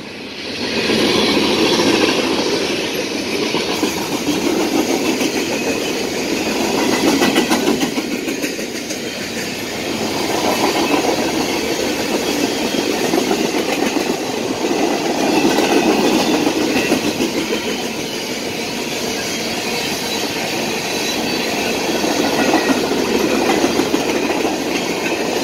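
Freight train of tank cars and covered hoppers rolling past at close range: a steady rumble of steel wheels on rail with clacking, swelling and easing every few seconds as the cars go by.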